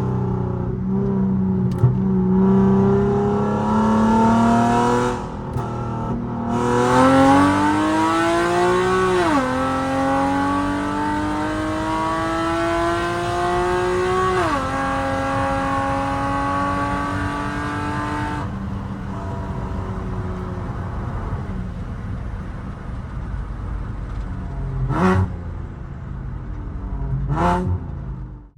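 Infiniti Q50's 3.7-litre VQ37VHR V6 breathing through longtube headers and a full Tomei exhaust, running steadily at first and then pulling hard, its note climbing and falling back at two upshifts about 9 and 14 seconds in. The sound drops off at about 18 seconds, and two short sharp cracks come near the end.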